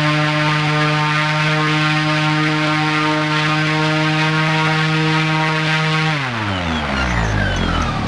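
40 kW BLDC electric motor spinning a three-blade carbon-fibre propeller, running at a steady speed with a steady pitched tone, then winding down about six seconds in, its pitch falling away.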